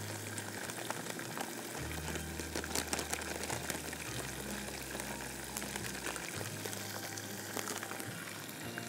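Chicken and browned onion frying in oil in a pot: a steady sizzle with scattered crackles.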